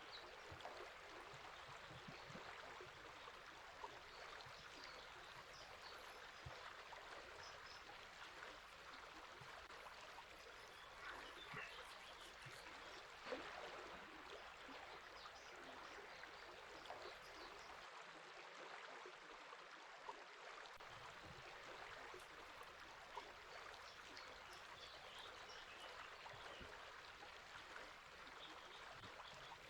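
Faint, steady running water of a river, with a few scattered faint bird chirps.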